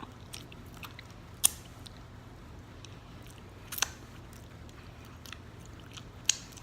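Chewing food close to the microphone, with three sharp clicks: about a second and a half in, near four seconds, and near the end.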